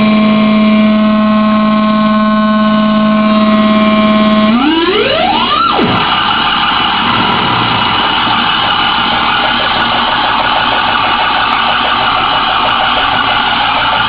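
DIY modular synthesizer patch: a ring modulator's sine wave fed through a wave folder, phase shifter and LFO-modulated filter. It holds a steady, buzzy drone, then about four and a half seconds in sweeps sharply upward in pitch and breaks into a dense, harsh, noisy texture.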